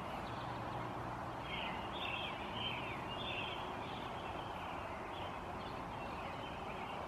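Birds singing in short, repeated chirping phrases over a steady background hiss.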